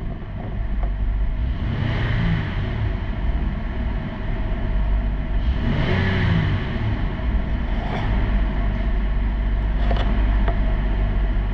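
2023 Honda Odyssey's 3.5-litre V6 running, briefly revved up and back down about two seconds in and again about six seconds in.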